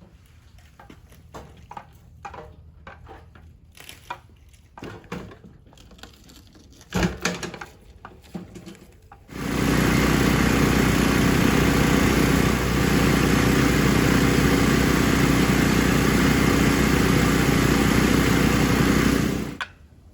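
Knocks and clatter of equipment being handled, with one heavy thump. Then a motor starts abruptly, runs steadily for about ten seconds, and cuts off suddenly.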